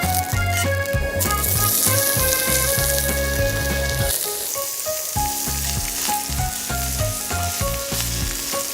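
Food sizzling in a hot pan, a dense hiss that starts about a second in, under background music with a melody and a steady bass beat.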